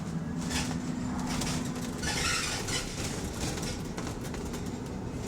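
Electric bus moving, heard from inside the cabin: a steady low rumble with a level hum over the first two seconds and a short hiss about two seconds in.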